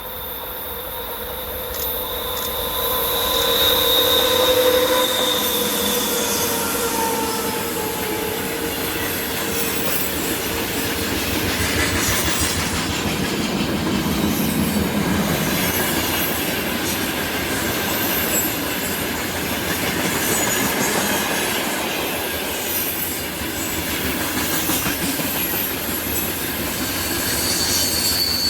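Freight train rolling past at close range, a continuous loud rumble and rattle of wagons on the rails. Thin high squeals from the wheels ring out over the first several seconds.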